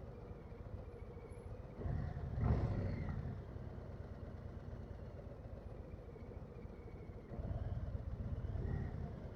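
Harley-Davidson Low Rider S V-twin engine running on the move, swelling louder twice: about two seconds in and again a couple of seconds before the end.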